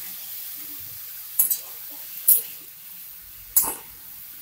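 Shredded cabbage sizzling in a little oil in a karahi while a spatula stirs it, scraping against the pan three times.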